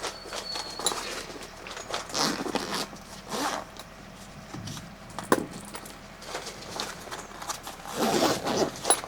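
Several short bursts of rasping, scraping handling noise, like something being pulled or zipped, with a sharp click about five seconds in.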